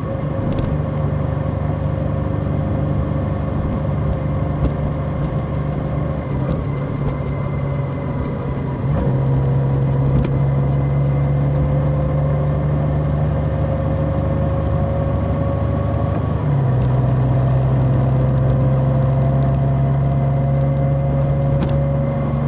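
Large motorcycle engine running steadily while riding, heard from the bike. Its pitch drops suddenly twice, about nine seconds in and again near seventeen, each time followed by a louder, lower drone, as it shifts up through the gears.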